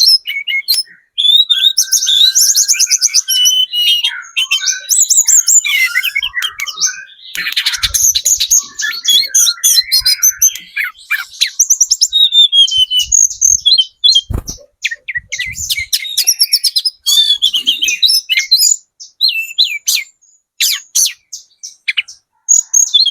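Tledekan gunung songbird singing a long, fast, varied song of high chirps, rapid trills and whistled phrases with only short pauses, as used for a bird-lure recording. A brief low thump comes about halfway through.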